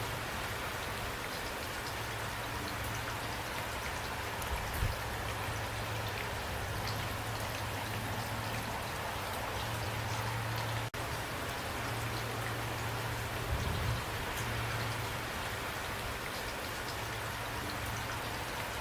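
Steady rain falling, an even hiss with individual drops ticking on a surface, and a low steady rumble beneath. A split-second dropout about eleven seconds in, where the sound cuts out and comes straight back.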